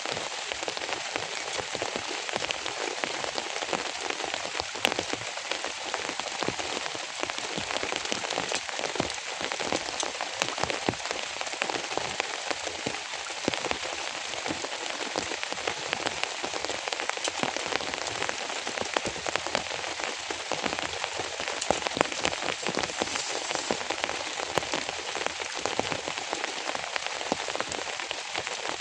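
Rain falling steadily, a dense stream of separate drop hits over an even hiss.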